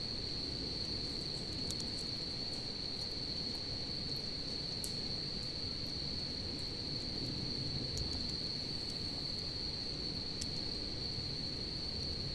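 Crickets singing: a steady, unbroken high trill, with a low murmur of noise beneath and a few faint, scattered clicks from the crackling campfire.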